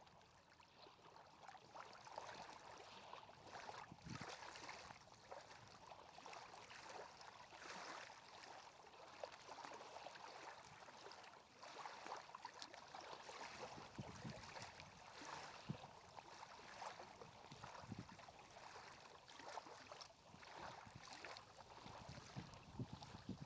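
Faint water sounds on a lake: soft lapping and small irregular splashes, with no duck calls standing out.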